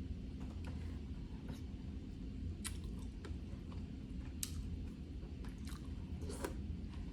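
Close-up eating sounds of snow crab legs: chewing, with a dozen or so sharp, short clicks and snaps scattered through it.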